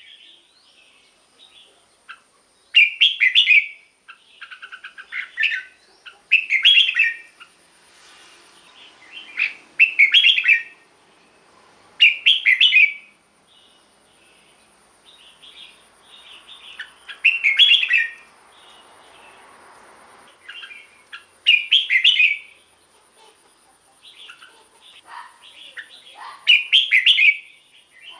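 Red-whiskered bulbul singing: short, loud warbling phrases repeated every few seconds, with softer chattering notes between them.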